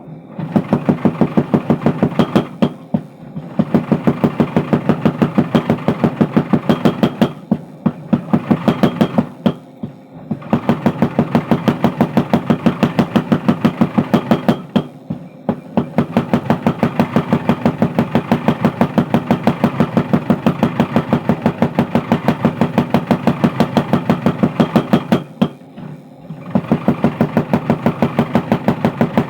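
Mechanical power hammer forging steel with rapid, even blows, about five a second, in runs broken by several short pauses.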